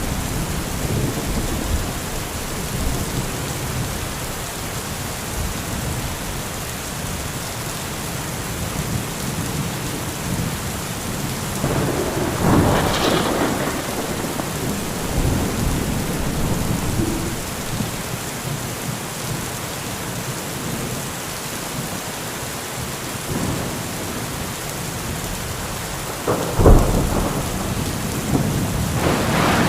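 Heavy thunderstorm: steady downpour of rain with rolling thunder. A rumble swells about halfway through, a sharp thunderclap cracks near the end, and a further rumble builds just after it.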